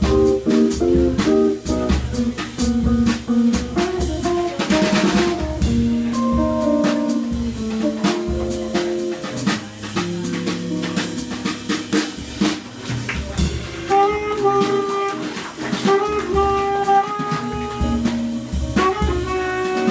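Live jazz trio playing: tenor saxophone holding sustained melody notes over guitar and a drum kit.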